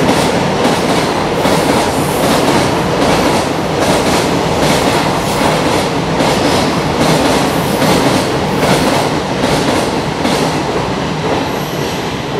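Freight train's container wagons passing at speed, a steady rumble with the wheels clacking over rail joints about twice a second. The sound drops away near the end as the last wagon passes.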